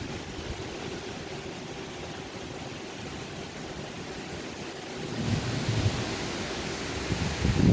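Strong wind ahead of a rainstorm: a steady rushing that gusts harder about five seconds in, with low buffeting on the microphone that peaks near the end. A faint steady hum runs underneath.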